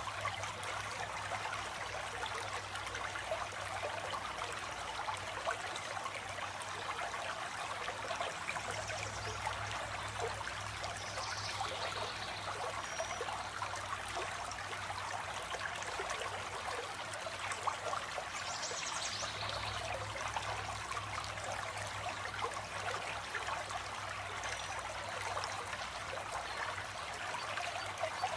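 Flowing water running steadily, with a steady low hum underneath and a few faint, short high bird calls about a third and two-thirds of the way through.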